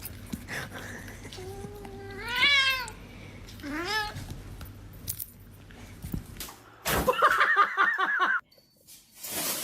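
A domestic cat meowing twice: a long drawn-out meow that rises and then falls, and a shorter rising one a second later. Near the end, after an abrupt change in the sound, a different higher, wavering cry.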